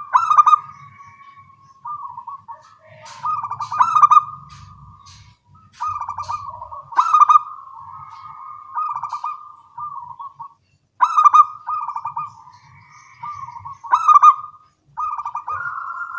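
Zebra doves (perkutut) cooing, several birds answering one another. Each song is a short phrase of quick, stuttering coos, and they recur every two seconds or so.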